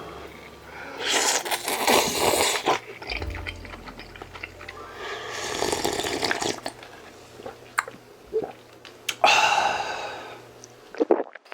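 Udon noodles and broth being slurped in three long wet slurps, each about a second and a half, with small clicks between them.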